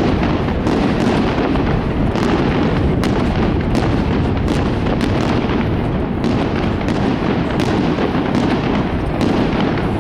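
Aerial fireworks display: a dense, unbroken barrage of shell bursts, with many sharp bangs over a steady low din.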